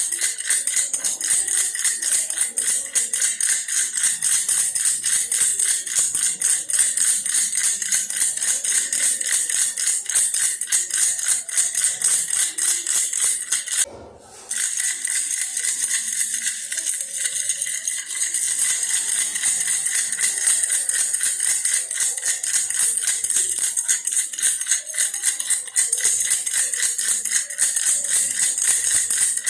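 Baby's toy bear rattle shaken rapidly and continuously, a dense bright jingling shake with a brief break about halfway through.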